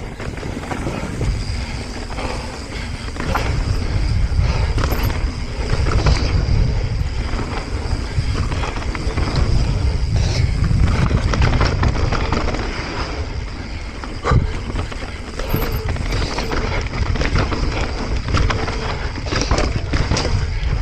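Transition Patrol mountain bike ridden over a dirt trail: a constant rush of tyre and wind noise on the camera microphone, with many clattering knocks from the bike over rough ground and one sharper knock about two-thirds of the way in.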